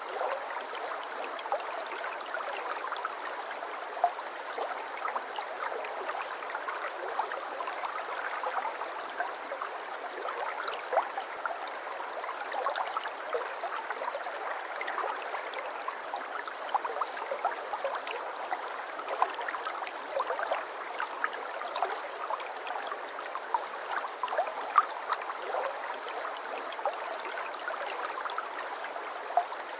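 A shallow brook babbling steadily over stones, with many small splashes and gurgles.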